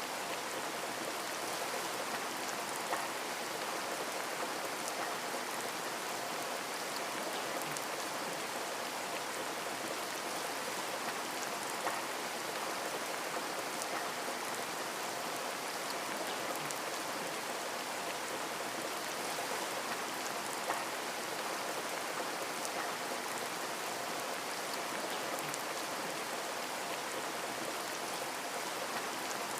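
Steady rain falling on a window, an even hiss of drops with a few single drop ticks standing out now and then.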